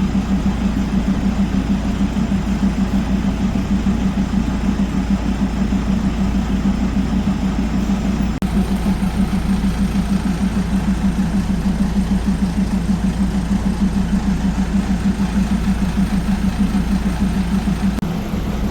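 Diesel train engine idling with a steady, even throb.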